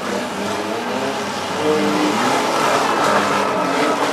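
Engines of the four- and six-cylinder derby cars revving and running hard together, their pitches shifting up and down, a little louder from about a second and a half in.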